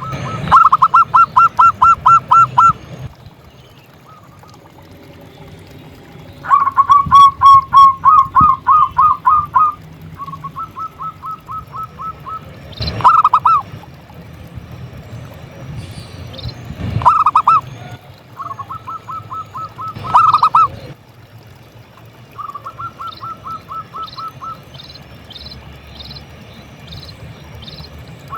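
Zebra doves (perkutut) cooing in quick runs of short repeated notes, each run lasting a second or two, with a few louder single coos between the runs. In the last few seconds a smaller bird chirps faintly in a high, even rhythm.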